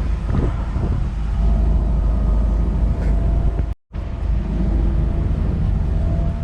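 Boat's outboard motor running steadily under way, a loud low rumble with a faint steady engine tone; only one of the boat's two motors is running. The sound cuts out for a split second a little under four seconds in, then carries on the same.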